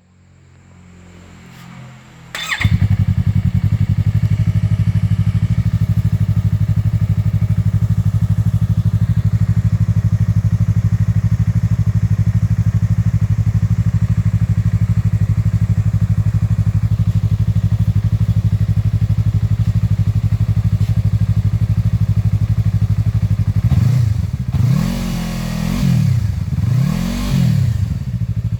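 Yamaha R3 parallel-twin motorcycle engine with a DG Performance aftermarket exhaust, catching suddenly about two and a half seconds in and then idling steadily. Near the end it is blipped several times, the pitch rising and falling with each rev.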